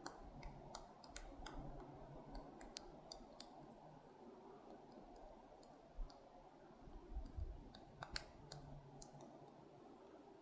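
Female hairy woodpecker pecking at tree bark while foraging: irregular, sharp, faint taps, bunched in the first few seconds and again near the end, not a steady drumming roll.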